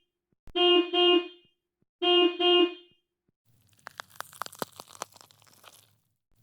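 Car horn sounding twice, each time a quick double honk, 'beep-beep', about a second and a half apart. About half a second after the second, a stretch of irregular crunching, crackling clicks begins over a faint low hum.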